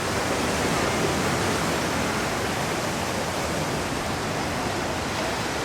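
Steady rushing noise of surf washing onto the beach, without distinct breaks.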